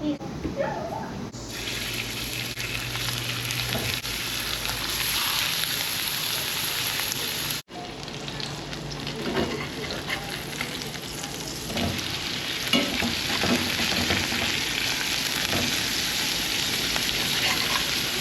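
Ground-beef burger patties sizzling as they fry, a steady crackling hiss that starts about a second and a half in, with a few small clicks and a sudden break near the middle.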